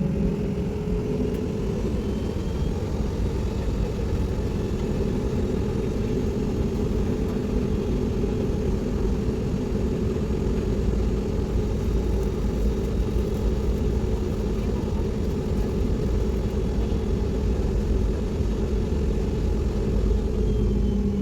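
Steady drone of airliner cabin noise: engines and airflow running evenly, with a low hum of steady tones under a rumbling hiss.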